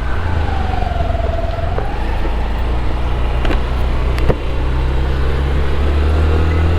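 Honda Activa 125 scooter's 124cc single-cylinder engine running under way, a steady low drone that grows a little louder from about five seconds in. A brief wavering tone dips and rises in the first two seconds, and a few sharp clicks come in the middle.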